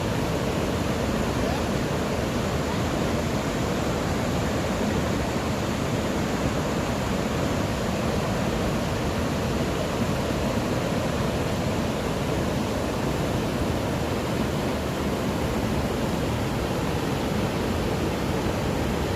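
Steady rush of water flowing from a rain-filled small reservoir, an even roar that does not change.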